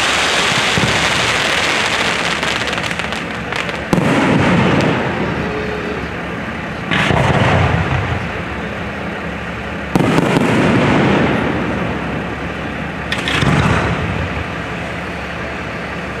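Fireworks display: aerial shells bursting with a sharp bang about every three seconds, four times. Each bang trails off in a long echoing tail that blends into the noise of the next.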